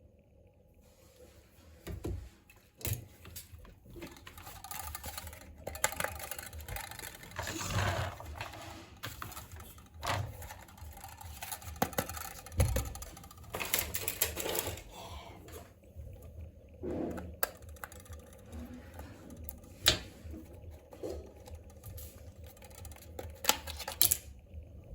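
Irregular clicks, taps and rustles of a toy helicopter's box and plastic packaging being handled and opened.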